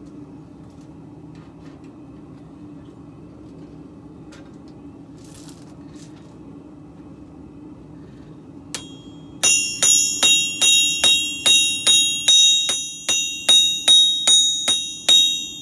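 Hammer striking hot steel on an anvil, with a single blow and then a steady run of about sixteen blows, roughly three a second, each ringing out in high, bell-like tones, as a blade is forged out. A steady low hum sits underneath throughout.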